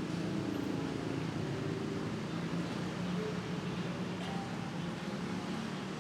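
Busy city street ambience: a steady hum of motor traffic.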